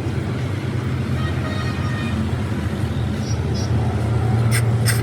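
A steady low mechanical drone like an engine running, with two sharp clicks or knocks close together near the end.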